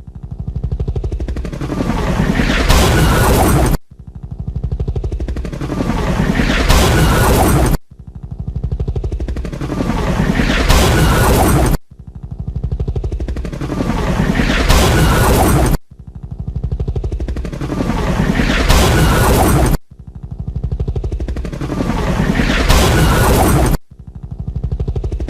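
Sound effect of a helicopter falling and crashing, looped about every four seconds. Each pass is rapid rotor chop with a sweeping pitch that builds into a loud crash burst, then cuts off abruptly and starts again.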